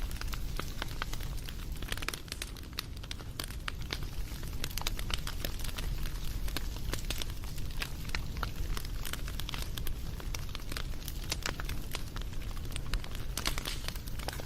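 Wood fire crackling, with dense, irregular pops and snaps over a low, steady rumble.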